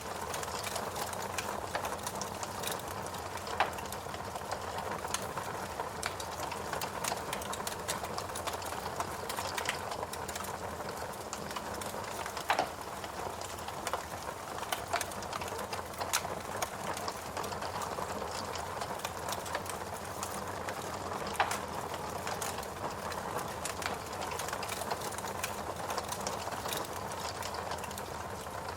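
Fireplace crackling: a steady hiss dotted with many small, fast snaps, and a handful of louder pops.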